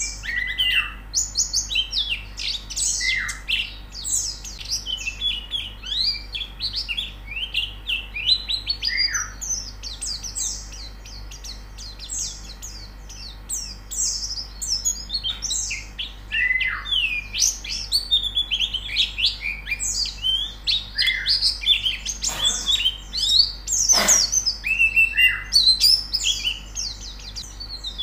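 A flock of white-eyes (pleci) chirping and twittering nonstop in dense, overlapping high notes, with now and then a lower downward-sliding call. Two short noisier sounds cut in about three-quarters of the way through.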